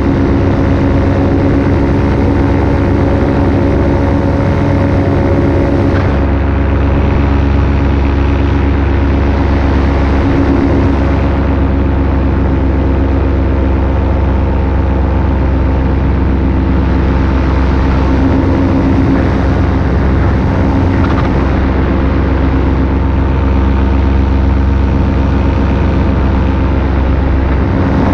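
Paramotor engine and propeller running steadily in flight, holding an even pitch and loudness throughout.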